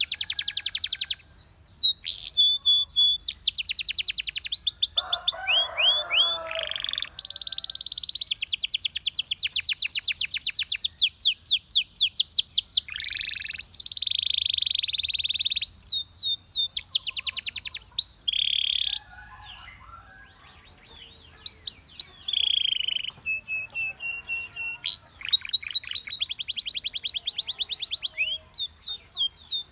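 Domestic canary singing a long song of fast, rapidly repeated-note trills and rolls with some held whistled notes, in phrases broken by short pauses. There is a lower, rattling phrase about five seconds in, and a longer pause of about two seconds two-thirds of the way through.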